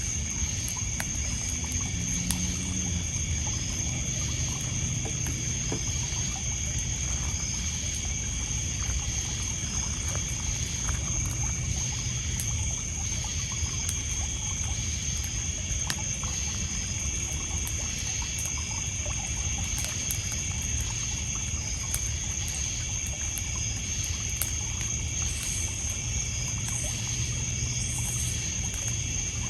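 Night ambience: crickets and other insects trilling steadily at a high pitch over water lapping on a pebble beach, with occasional faint crackles from a wood campfire.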